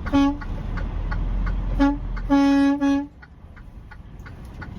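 A vehicle horn honking: a short toot, another about a second and a half later, then a longer blast that stops about three seconds in. Steady ticking and low vehicle rumble run underneath.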